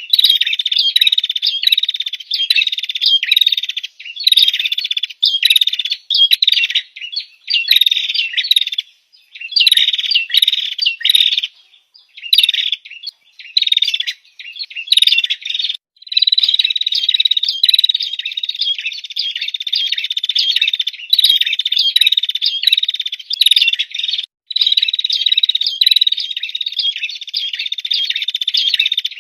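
Small songbird singing in long runs of rapid, high chirps and trills, with a few brief breaks: a masteran song recording used to tutor competition birds.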